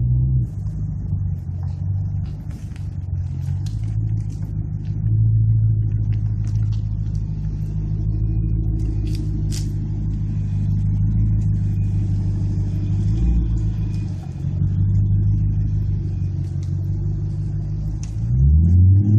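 BMW 550i V8 engine through an RPI GT aftermarket exhaust, running with a steady low rumble at low revs; near the end the pitch starts rising as the engine revs up.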